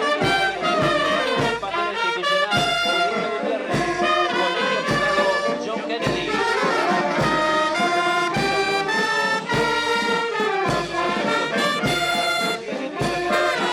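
Brass band playing a lively tune of trumpets and trombones over a steady low beat about once a second.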